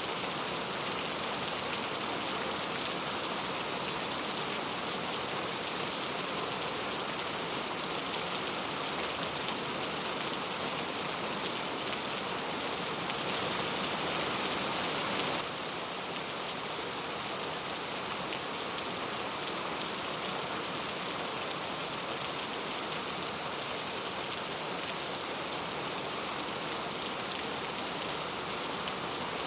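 Steady rain falling on a surface, an even hiss with no let-up. It swells slightly for a couple of seconds around the middle, then drops back abruptly.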